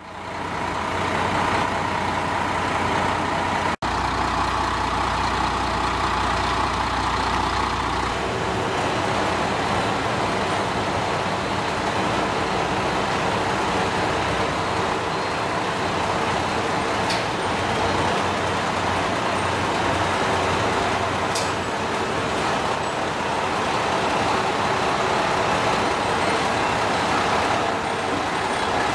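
KiHa 32 diesel railcar running with a steady engine rumble and broad hiss, broken by a split-second dropout about four seconds in, after which the low hum changes about eight seconds in.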